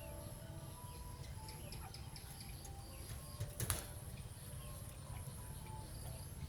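Low rumble of wind on the microphone, with faint short bird calls and scattered small clicks. A brief, louder rustling burst comes about three and a half seconds in.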